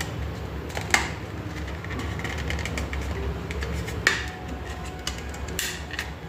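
WD My Passport external hard drive clicking: two sharp clicks about three seconds apart, with fainter ticks between, over a low steady hum. The clicking is the sign of a drive that is not working.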